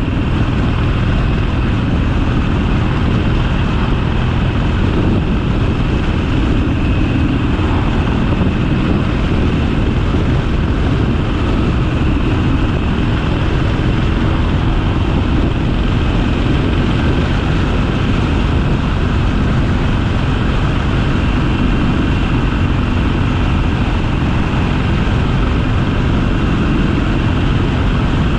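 Harley-Davidson Sportster's air-cooled V-twin engine running steadily while riding along at an even speed.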